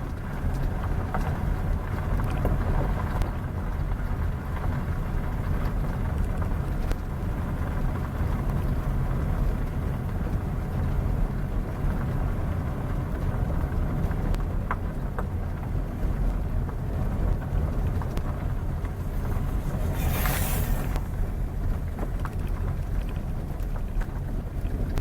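Vehicle travelling along a road: a steady low engine and road rumble, with wind buffeting the microphone. About twenty seconds in, a short hiss lasts about a second.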